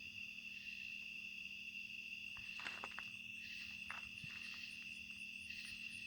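Crickets trilling in a steady night chorus, with a faint steady low hum under it and a few soft clicks about the middle.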